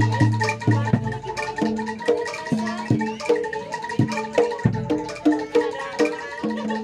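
Live Javanese gamelan music for kuda lumping: bronze metallophones struck in a quick, steady pattern over drum strokes, with one held tone sounding underneath.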